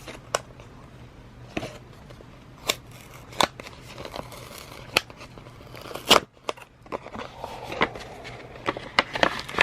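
Paper crinkling and rustling, with irregular sharp snaps and clicks, as an envelope is opened and its folded papers are handled. The loudest snap comes about six seconds in.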